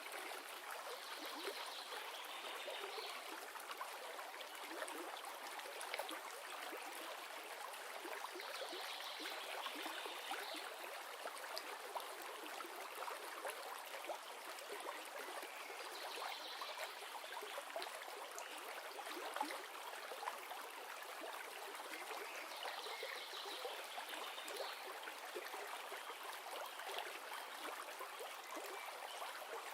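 River water running: a steady rush and trickle of flowing water, with a brief higher sound coming back about every seven seconds.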